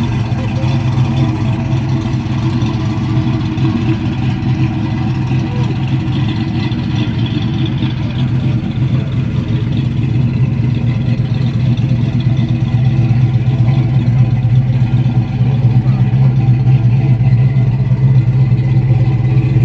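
1974 Pontiac Grand Ville's V8 idling steadily, a low, even rumble from the exhaust.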